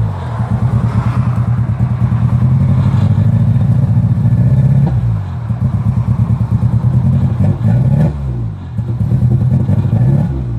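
Metro car engine running rough under throttle. The revs climb and then sputter and fall back again several times: it will not rev past about 2,000 rpm.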